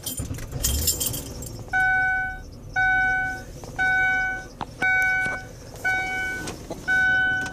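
Ford Taurus 3.0 L Vulcan V6 cranked and caught in the first second or so, then running at idle. Over it, the car's dashboard warning chime dings six times, about once a second.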